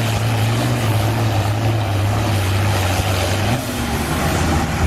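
International Harvester 966 tractor's six-cylinder diesel running hard under load on a pull, a loud steady drone whose pitch drops a little about three and a half seconds in.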